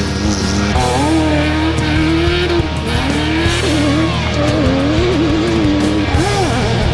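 Rally car engine revving hard, its note rising and falling again and again as it is driven over a dirt stage, mixed with rock music.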